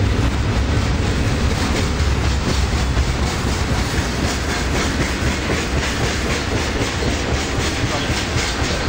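Freight train rolling past, a steady heavy rumble with the rhythmic clickety-clack of railcar wheels over the rail joints.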